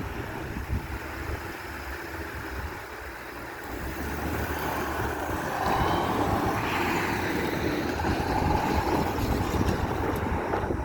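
Low rumble of a freight train rolling past, growing louder about four seconds in, with wind buffeting the microphone.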